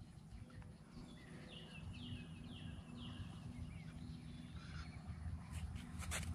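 A bird singing faintly: a short run of about four quick falling notes, one every half second or so, over a low outdoor rumble. A few soft clicks come near the end.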